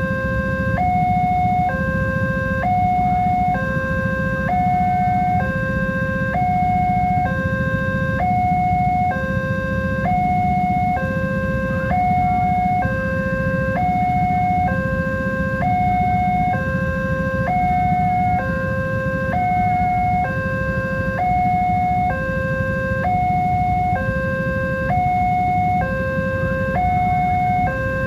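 Electronic two-tone warning alarm of a railway level crossing, alternating between a lower and a higher tone, each held about a second, over and over. A steady low rumble runs underneath.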